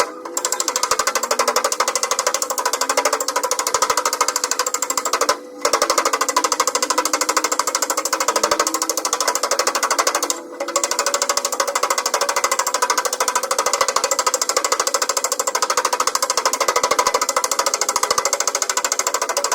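Very rapid, continuous tapping on a car door's sheet-metal panel during dent repair, stopping briefly twice.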